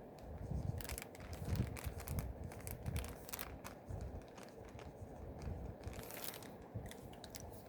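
Plastic packaging crinkling as it is handled, in irregular crackles with a few soft knocks.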